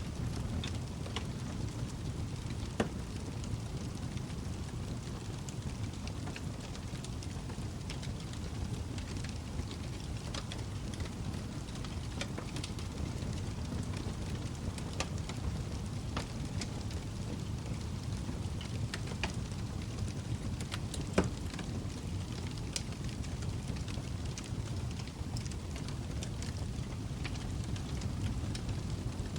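Log fire burning with a steady low rumble and constant scattered crackles, two louder pops about 3 seconds in and about 21 seconds in.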